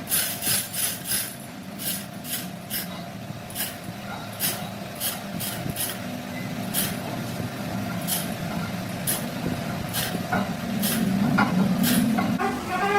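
Irregular series of sharp taps, about one or two a second, over a steady low hum that grows louder near the end.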